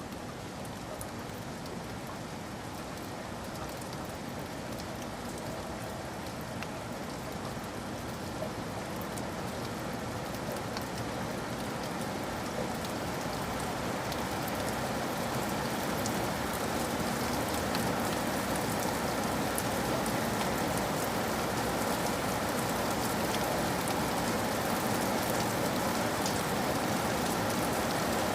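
Steady rain falling, a dense even hiss with scattered small drop ticks, growing gradually louder.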